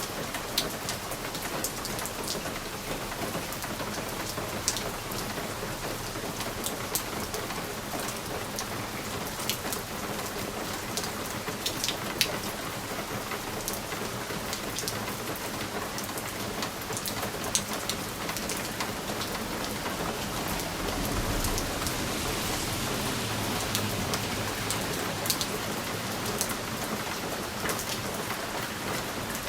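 Steady rain pattering on a window pane, with scattered sharp ticks of single drops striking the glass. A low rumble swells briefly about two-thirds of the way through.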